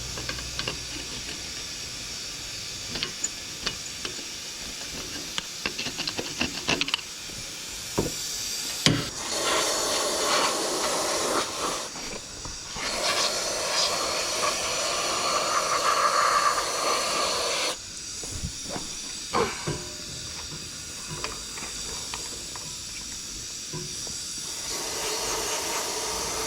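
Aerosol parts cleaner spraying in long hissing bursts, one cutting off abruptly, cleaning brake parts. Before that come scattered light metallic clicks and taps of tools and parts.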